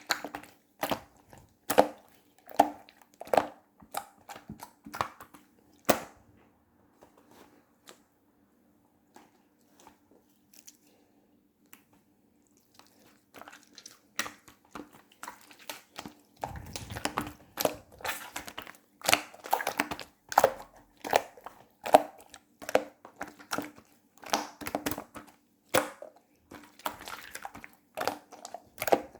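Slime being squished and poked by hand, giving irregular wet sticky clicks and pops. The sounds thin out for a few seconds in the middle, then come thick and fast again. A faint steady hum runs under them.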